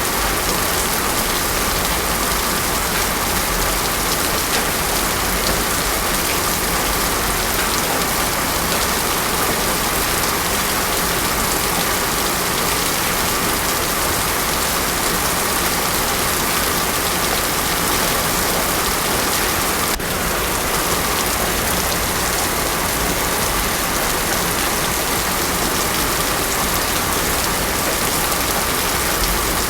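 Heavy rain falling steadily on a road, a continuous dense hiss with no thunder.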